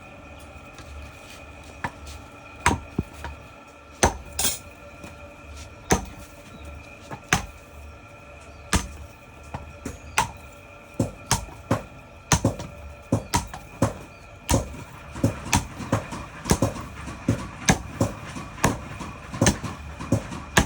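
Blacksmith's hammer blows on metal, single strikes spaced about a second and a half apart, quickening near the end into a fast run of two or three strikes a second, over a faint steady hum.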